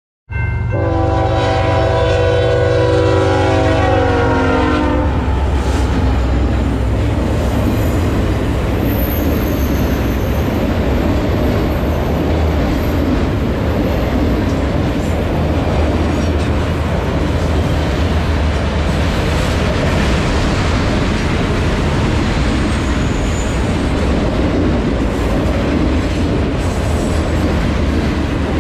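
A freight locomotive's air horn sounds one long chord for about five seconds. Then a steady rumble of autorack freight cars rolling past on the rails carries on.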